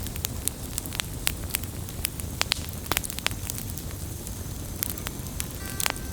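Wood fire crackling: many irregular sharp pops and snaps of burning logs over a steady low rumble of the flames.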